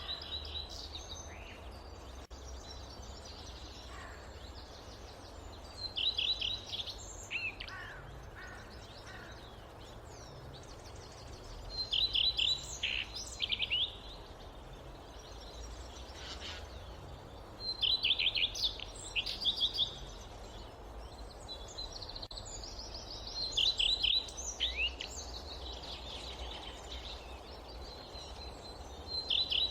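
Forest ambience with a steady low rumble of wind, and a songbird repeating a short song of rapid, descending high notes every five or six seconds.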